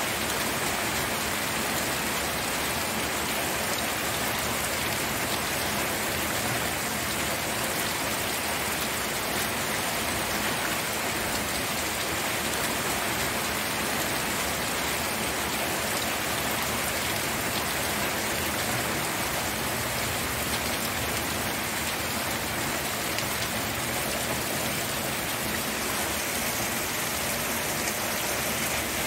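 Steady rain falling on a surface: a dense, even hiss of drops.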